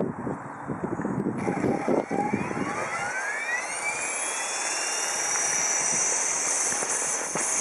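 Align T-Rex 450 Pro DFC electric RC helicopter spooling up: its brushless motor and rotor head start a high whine about a second in that climbs smoothly in pitch for a few seconds, then holds steady at flying head speed. Gusty wind noise on the microphone is heard early on.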